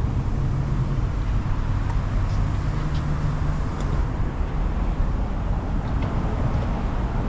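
Steady low rumble of wind and road noise while riding a bicycle, with a few faint light ticks.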